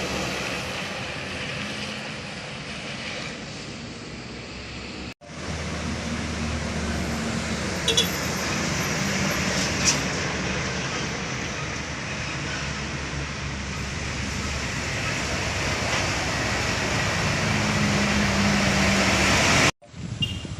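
Heavy diesel trucks' engines working hard as they climb a steep grade, a continuous drone with traffic noise and two short sharp sounds about eight and ten seconds in. The sound cuts out abruptly about five seconds in and again near the end.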